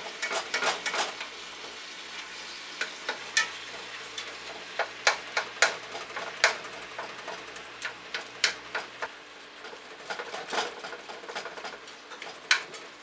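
A spatula chopping and scraping raw ground beef in a hot pan, making irregular sharp taps and clicks against the pan over a steady sizzle of the meat frying.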